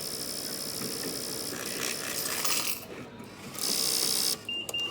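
Cash payment machine of a semi-self checkout running its mechanism to pay out change and print the receipt: a steady mechanical whir, then a rougher rattling stretch, a short pause, and a second whir of about a second near the end.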